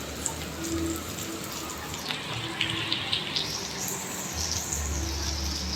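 Rain falling with a steady hiss, and a few sharp drips. About two seconds in, a louder high-pitched hiss of water swells and stays.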